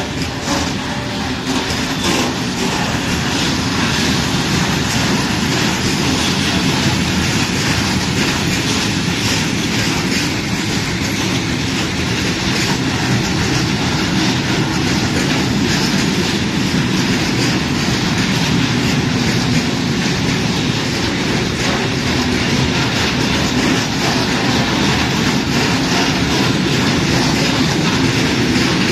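A train running through the station close by, a steady, loud rumble of steel wheels on the rails with faint rapid clicking.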